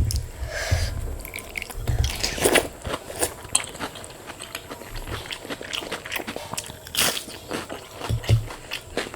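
Close-miked chewing and biting of crunchy fried food, many small crisp crackles with a few louder crunches.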